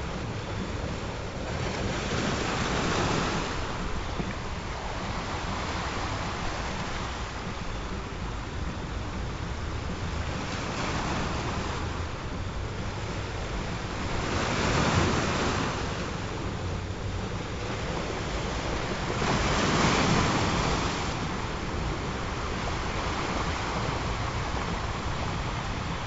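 Ocean surf: waves rolling in and washing up in slow swells, several louder surges a few seconds apart.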